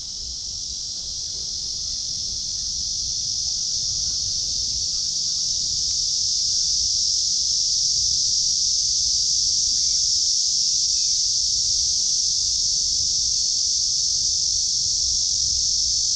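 Cicadas in a steady, high-pitched chorus that swells louder over the first several seconds, then holds.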